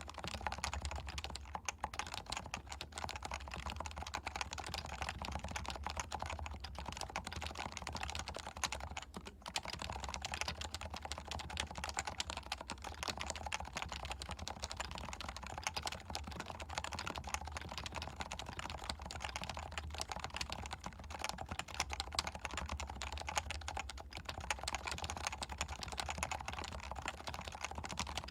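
Continuous fast typing on a Leopold FC660C keyboard with stock, non-silenced 45 g Topre electrostatic capacitive switches: a steady stream of keystroke clicks, with a brief lull about nine seconds in.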